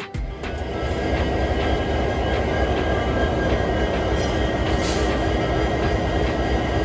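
Twin EMD WDP-4 diesel-electric locomotives idling, their two-stroke V16 engines making a steady low rumble with a few faint held tones. The sound comes up over the first second and then stays even.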